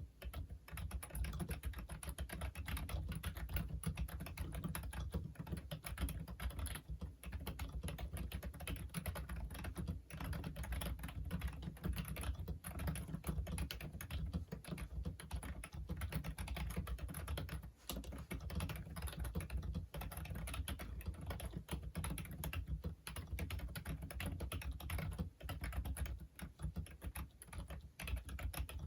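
Continuous typing on a Logitech Wave Keys ergonomic wireless keyboard: a steady stream of soft key clicks, with a few brief pauses.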